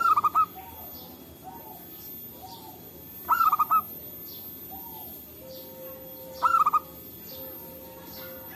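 Zebra dove (perkutut) song: three bursts of quick staccato coos, about three seconds apart, with softer answering coos from other doves in between.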